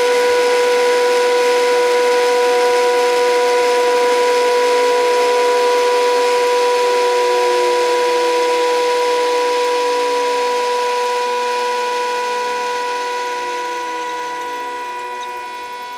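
HUSTOO 775 DC motor of a modified toy washing machine driving the drum by belt, with a steady high motor-drive whine. From about halfway in, the motor's pitch slides down and the sound fades as the drum gradually slows after the final spin.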